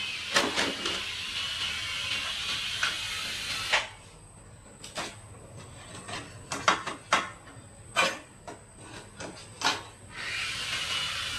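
A steady hiss that stops about four seconds in and comes back near the end, with scattered sharp clicks and clinks in the quieter middle stretch.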